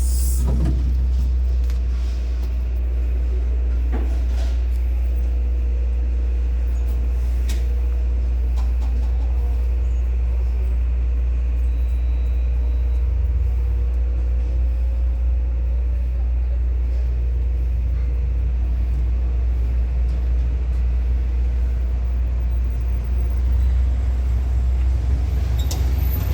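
New Holland 7610S tractor's four-cylinder turbo diesel engine running steadily, a deep low rumble with a faint whine over it and a few light clicks.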